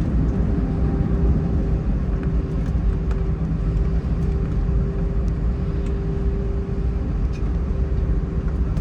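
Cabin noise of an Airbus A320 rolling on the ground after landing: a steady low rumble of engines and wheels with a constant hum over it and a few faint clicks.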